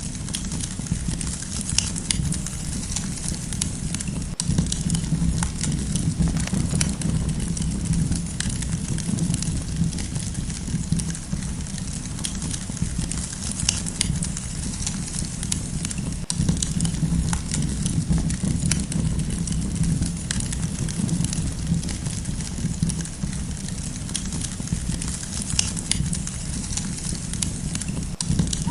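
Campfire burning: a steady low rumble of flames with scattered sharp crackles and pops at irregular intervals.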